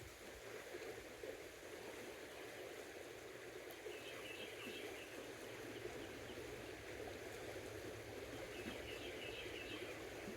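Creek water running steadily, with faint high chirps twice, about four seconds in and near the end.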